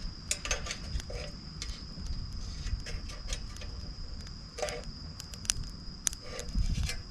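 Wood campfire crackling, with irregular sharp pops and snaps. Behind it a steady high insect trill keeps on without a break.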